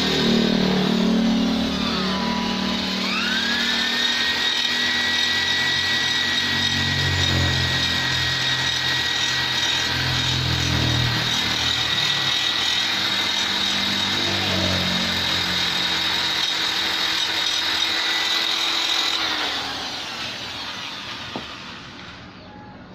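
High-speed die grinder with a carbide tuner burr, grinding out ports on a Vespa engine part. Its steady high whine sags about two seconds in as the burr bites, then recovers and holds. Near the end the grinder spins down.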